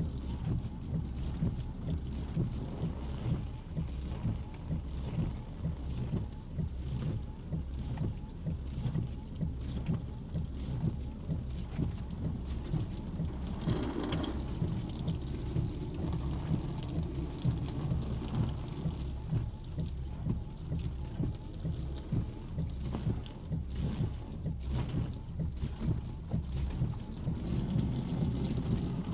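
Garden hose spraying water onto a car's windshield and body, a steady rushing, drumming spray.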